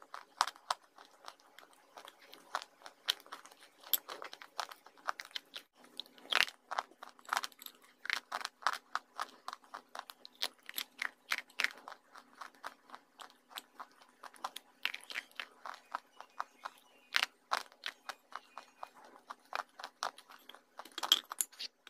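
Slate pencils dipped in clay paste being bitten and chewed close to the microphone: dense, sharp crunching, several crunches a second, with a few louder bites scattered through.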